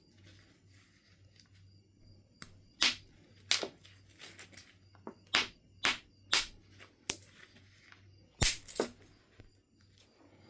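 Flintknapping percussion on Knife River Flint: about nine sharp, irregularly spaced strikes of a knapping tool on the stone, knocking off flakes, starting about three seconds in, the loudest just past eight seconds.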